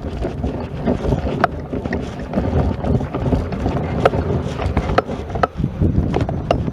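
Wind buffeting the microphone in an uneven low rumble, with scattered sharp clicks.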